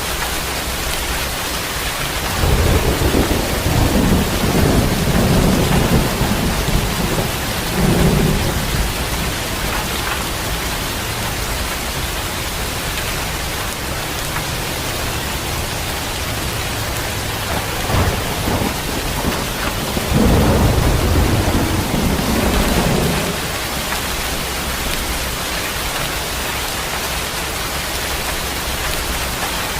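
Steady heavy rain with rolling thunder: a long low rumble from about two seconds in to eight seconds, a short crack near eighteen seconds, then a second rumble from about twenty to twenty-three seconds.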